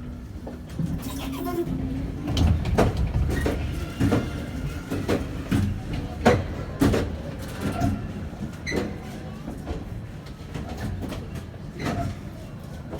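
M8C tram in motion: a steady low hum for the first two seconds, then a run of irregular knocks and rattles from the car.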